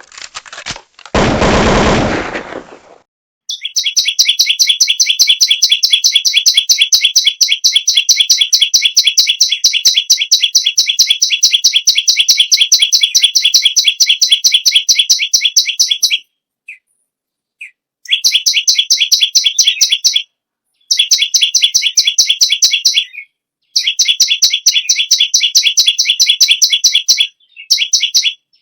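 Perenjak lumut songbird singing a fast, rapid-fire run of high, repeated notes, about ten a second, in long bouts broken by short pauses. Near the start a loud, brief sound lasting about a second and a half comes before the song.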